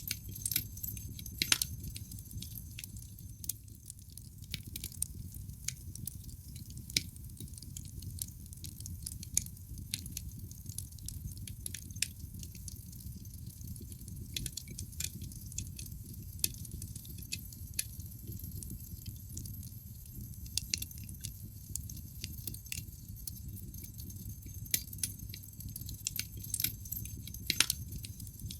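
Wood fire burning in a fireplace, crackling with irregular sharp pops and snaps over a low steady rumble. Louder pops cluster about a second or two in and again near the end.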